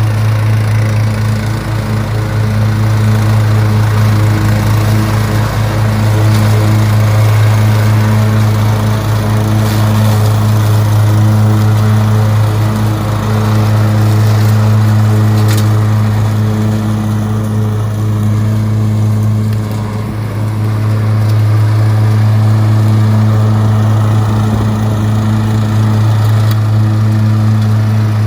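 Lawn mower engine running steadily while mowing, a loud even hum with a short dip in level about two-thirds of the way through.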